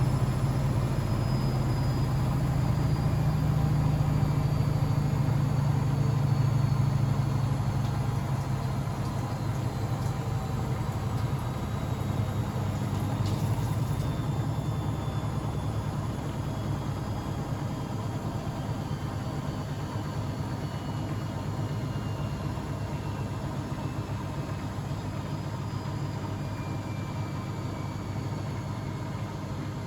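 Blomberg WAF 7442 SL front-loading washing machine running with a steady low hum and a faint high motor whine that falls slowly in pitch. The sound grows quieter after about seven seconds, as the drum slows down from a spin.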